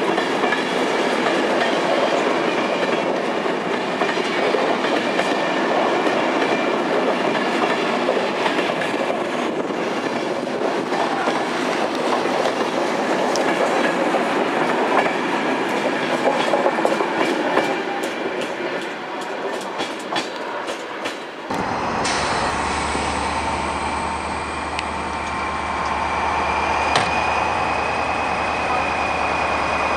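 Renovated Corail passenger coaches rolling past, their wheels clattering over rail joints, with a quick run of clicks near the end of the pass. About two-thirds of the way through, the sound cuts to a steady low engine hum at idle with a thin high whine above it.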